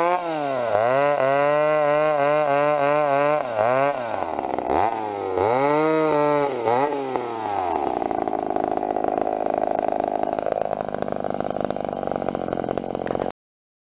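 Chainsaw running hard, its pitch repeatedly dropping and climbing back up, then a rougher, steadier running sound; it cuts off suddenly near the end.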